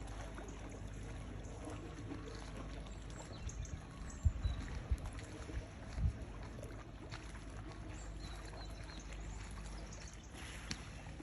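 Small sea waves lapping and splashing against the shore, with a steady low rumble and a few low thumps about four to six seconds in.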